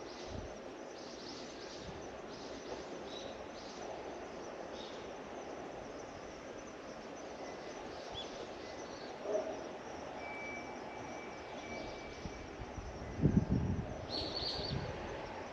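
Outdoor ambience with a steady background hum and scattered short, high bird chirps, and a thin whistled tone held for a couple of seconds midway. A brief cluster of low thumps comes about 13 seconds in, followed by a louder chirp.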